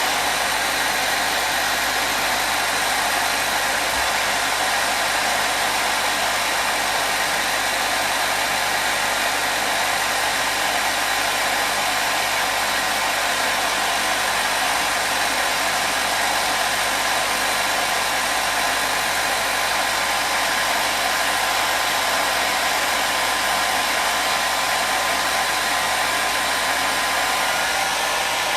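Hair dryer blowing steadily, a constant airy rush with a faint motor whine, used as white noise.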